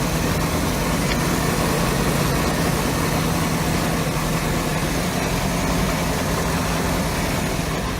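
Bayliner boat engine idling steadily on its trailer, running on hose-fed cooling water during a leak-check test run after its cracked manifolds and block were patched with epoxy putty.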